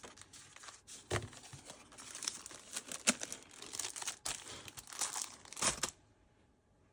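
Paper and packaging being handled, rustling and crinkling, with a few sharper taps among them; it stops suddenly about six seconds in.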